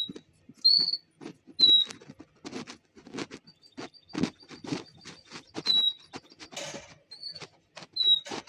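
Caged European goldfinches giving short, high chirps about once a second, over a run of quick taps and rustles.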